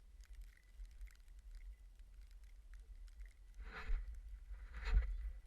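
Wind buffeting a GoPro's microphone in a blizzard, a steady low rumble with faint ticks. Two louder rushing swishes come about a second apart near the end.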